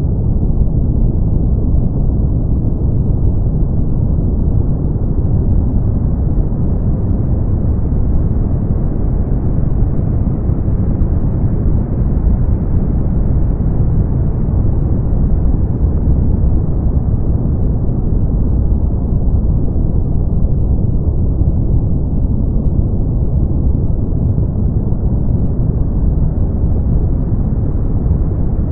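Brown noise: a steady, deep rushing hiss with most of its weight in the bass and almost nothing above the upper midrange, its brightness swelling and easing slightly over many seconds.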